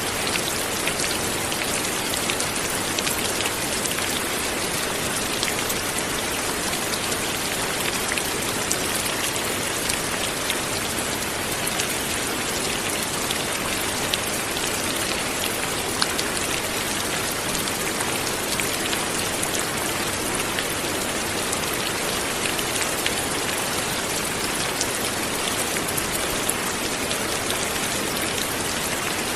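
Steady light rain, a dense even patter of many drops falling on a surface.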